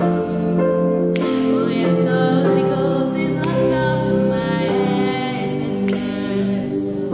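Revival worship song: a woman singing a slow melody over sustained, held chords.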